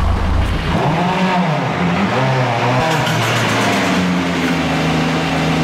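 Ford Fiesta rally car's turbocharged four-cylinder engine revving hard, its pitch rising and falling in the first couple of seconds, then running at a steadier high pitch from about three seconds in.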